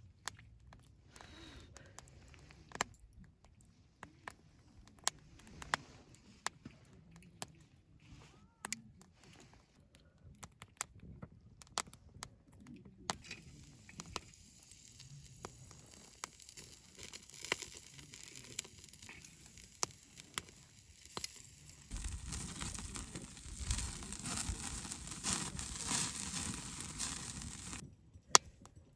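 Wood campfire crackling with scattered sharp pops. About twenty-two seconds in, a louder rushing noise joins for around six seconds, then cuts off suddenly.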